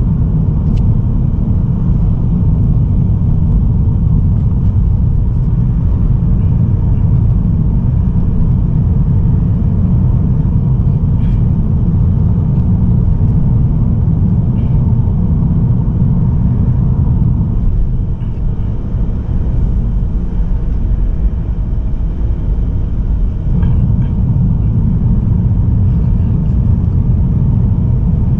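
Steady low road and engine rumble of a Mazda3 sedan with a 1.8 litre diesel, cruising on a highway and heard through an in-car camera. It eases a little about eighteen seconds in.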